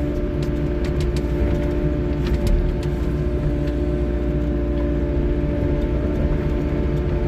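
3W-class wheeled excavator's diesel engine running steadily under load at an even pitch, with scattered light knocks and scrapes as the bucket strips a thin layer of asphalt.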